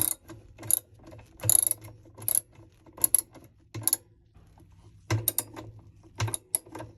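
Ratchet wrench clicking in short bursts of rapid strokes, about one burst a second with a pause partway through, as it tightens the bolt holding the washer's agitator together.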